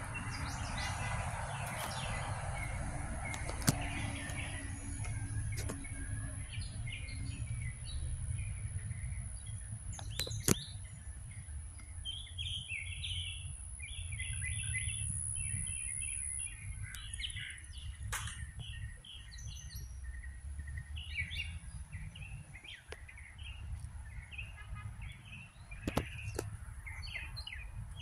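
Songbirds chirping and calling in short repeated notes, busiest in the second half, over a steady low rumble, with a few sharp clicks.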